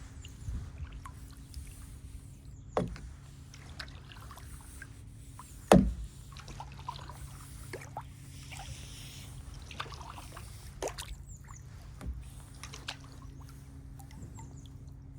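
Kayak being paddled: small water splashes and drips from the paddle over a faint steady low hum, with a sharp knock about three seconds in, a louder one just before six seconds and a lighter one near the end.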